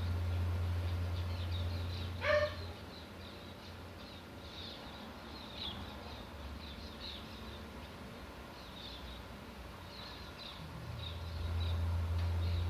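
Small birds giving many short, high chirps and chips. About two seconds in comes one louder, brief call. A steady low hum runs underneath, drops out after about two and a half seconds and comes back near the end.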